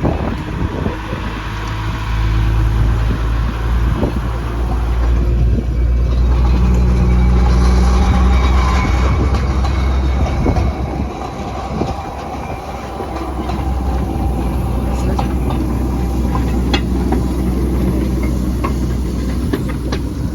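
A train passing over the level crossing, with a steady low engine drone that swells in the middle, dips briefly, then returns. Sharp clicks from the wheels come over the rails in the later part.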